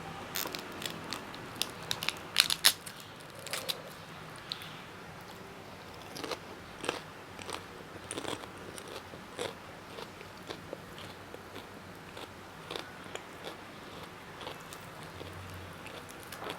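A person chewing crunchy food close to the microphone: irregular sharp crunches, the loudest about two and a half seconds in, growing sparser toward the end.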